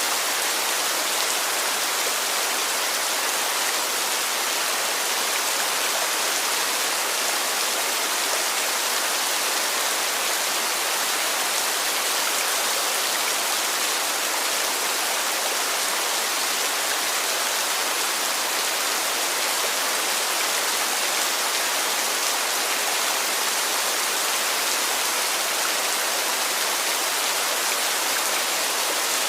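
Heavy rain falling steadily, an even hiss with no single drops, gusts or breaks standing out.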